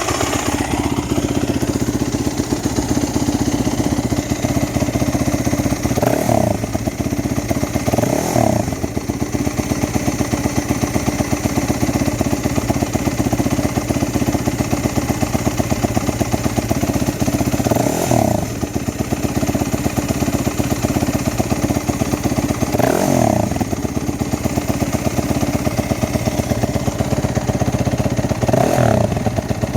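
2015 Yamaha WR250F's fuel-injected single-cylinder four-stroke engine idling steadily while warming up after a cold start. Five short throttle blips, each rising and falling back to idle, come spread through.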